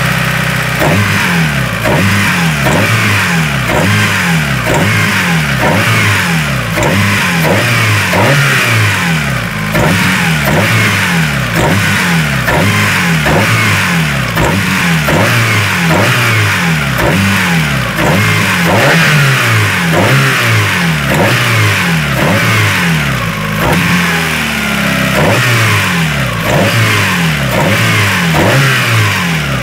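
Suzuki Swift GTi's four-cylinder engine running, with a regular pulsing noise repeating about twice a second. This is the engine noise the owner is recording as a fault.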